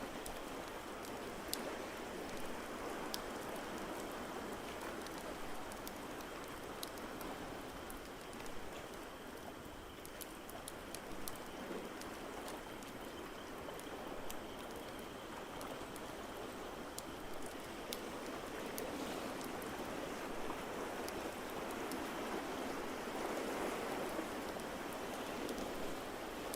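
A steady wash of water noise that swells slowly and grows louder toward the end, with scattered sharp crackles of a log fire throughout.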